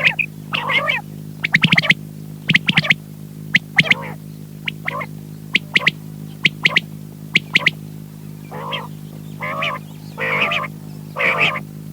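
Quail calling over and over, short sharp notes mixed with chattering bursts, over a steady electrical hum.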